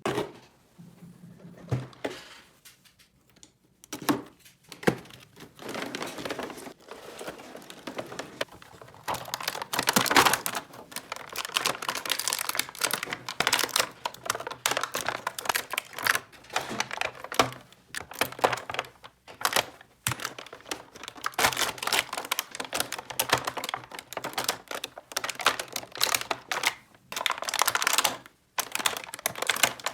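Small plastic toy pieces handled close up: rapid clicking and clattering with crinkling of plastic packaging, quieter for the first few seconds and then busy and continuous.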